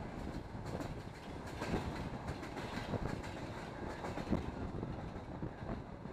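Passenger train running along the track, its wheels clacking irregularly over rail joints above a steady rushing noise.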